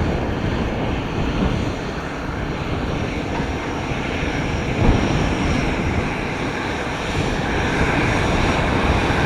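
Aircraft engines running steadily as a plane moves at the airport, the noise growing brighter and slightly louder near the end, with wind buffeting the microphone.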